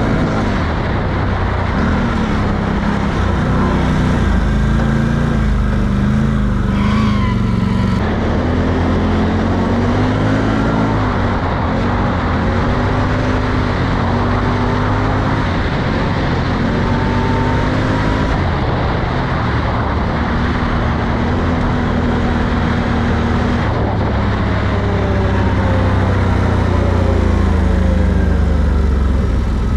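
Can-Am Outlander 850 XMR ATV's V-twin engine running while riding, its pitch rising and falling repeatedly with the throttle.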